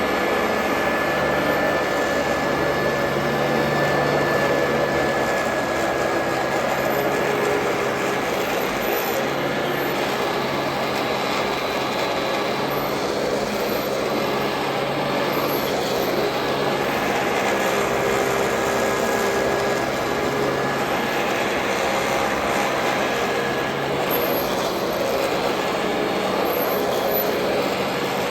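Royal Model 2008 upright vacuum cleaner running steadily under load, its motor giving a continuous rushing noise with a thin high whine over it.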